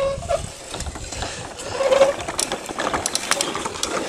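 Bicycle rolling along a rough dirt trail: scattered clicks and rattles over a low rumble.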